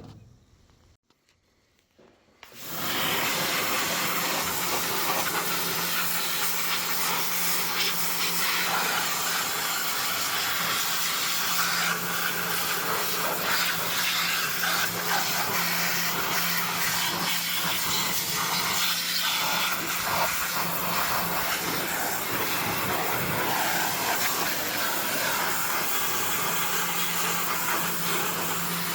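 Pressure washer running and spraying water: a steady hiss over a low motor hum, starting about two and a half seconds in.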